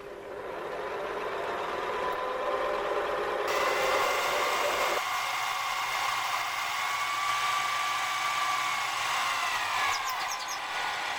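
Mini lathe running, its motor and gears whining as it comes up to speed over the first couple of seconds, with a hiss joining a few seconds in; the whine drops in pitch near the end.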